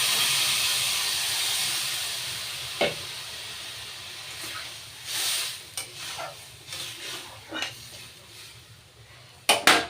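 Water poured into a hot pot of fried vegetables and dalia hissing and sizzling loudly, fading away over the first few seconds. Then a spoon stirring and knocking against the pot, with two sharp metal clanks near the end.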